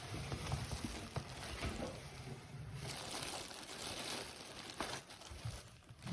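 Rustling and light knocks of a vacuum cleaner's box and packaging being handled during unboxing.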